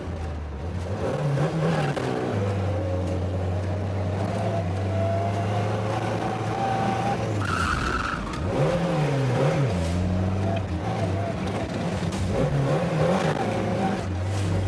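A Lada's engine pulling steadily while its narrow motorcycle tyres squeal as it skids around the track, with a short sharper squeal about seven and a half seconds in. The engine note then drops and swings up and down as the throttle is lifted and reapplied. The car is understeering.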